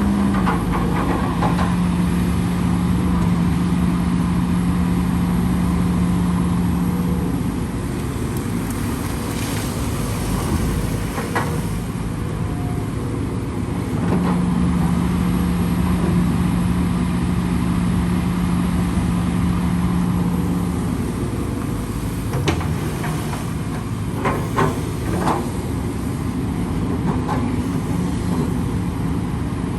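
Heavy diesel machinery running steadily while dredging a canal, its low steady hum rising and falling away in long stretches, with a few sharp clanks in the second half.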